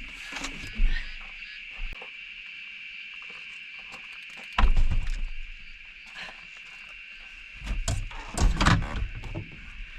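A steady, high insect drone from the bush, broken by low rumbling bumps about a second in, about halfway through, and again near the end.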